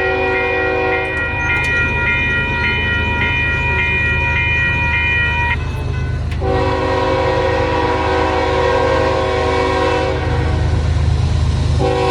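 Union Pacific freight locomotive's air horn sounding long blasts for the grade crossing: one held until about five and a half seconds in, another from about six and a half to ten seconds, and a third starting near the end. Under the horn runs a steady low rumble from the passing train.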